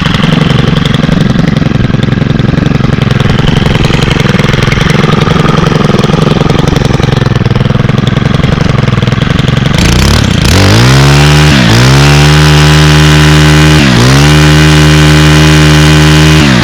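Stihl KM111R KombiMotor's 4-MIX engine idling. About ten seconds in it is revved up to full throttle and held there, with two brief dips in pitch as the throttle is eased off and reopened.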